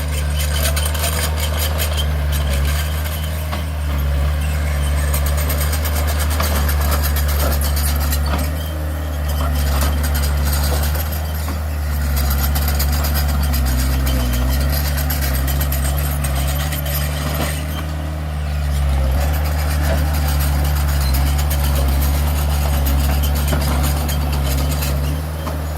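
Heavy diesel engine of earthmoving machinery running steadily with a low hum, over a continuous rattle and clatter.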